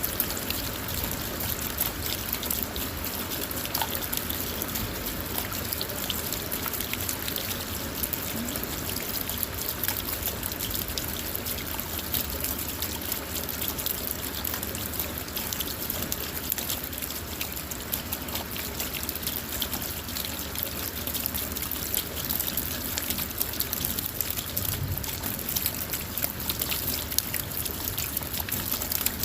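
Steady rain falling on a car, heard from inside: a constant hiss dotted with many small drop taps.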